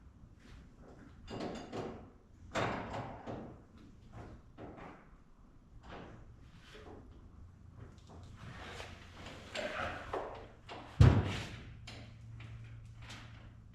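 Clatter of hand work in a shop: scattered knocks and rattles of tools and parts being handled, with one heavy thump about eleven seconds in, after which a low steady hum sets in.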